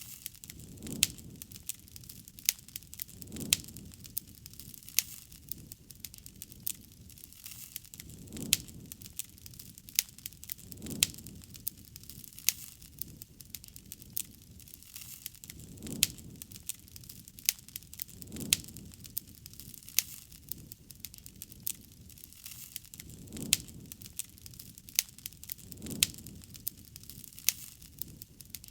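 Wood campfire crackling, with frequent sharp pops and snaps. A soft low rush swells and fades every few seconds.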